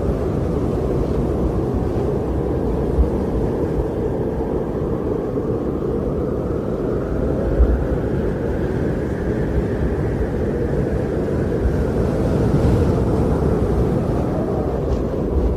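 Wind blowing in a snowstorm: a steady low rush that swells a little near the middle and eases again.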